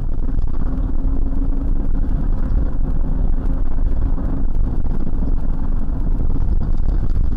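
Car driving, its engine and tyre noise a steady low rumble heard from a dashboard camera inside the cabin.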